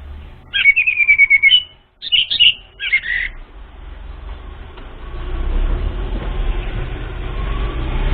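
Orange-headed thrush song: a rapid trill of notes just under a second long, followed by two short, complex whistled phrases. After about five seconds the bird falls silent and a low rumble of background noise rises.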